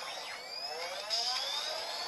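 Electronic jet-engine sound effect played through the small speaker of a 2014 Hess 50th anniversary toy truck set after a button press. It starts suddenly as a rising whine of several pitches climbing together.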